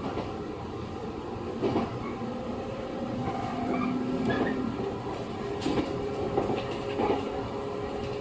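JR 115 series electric train running, heard from inside the car: a steady rumble of wheels on rail with motor hum and a few sharp clacks over rail joints. Brief faint wheel squeaks come around the middle.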